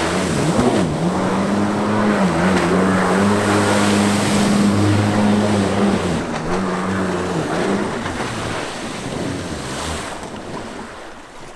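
Stand-up jet ski's two-stroke engine running hard, its pitch dipping briefly a few times as the throttle is eased, over a hiss of water spray and wind. The engine fades out about ten seconds in.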